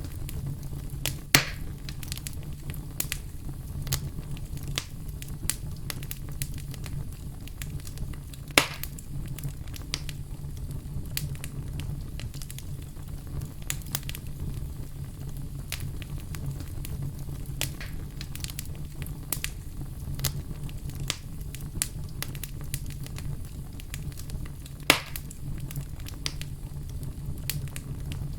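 Wood fire crackling steadily over a low rumble, with dense small ticks and three much louder pops: one about a second in, one at about a third of the way through, and one near the end.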